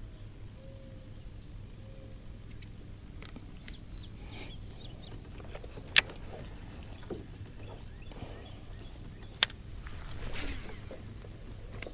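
Handling noise in a small boat: two sharp clicks about six and nine and a half seconds in, scattered light knocks, and a short swish near the end, over a low steady hum.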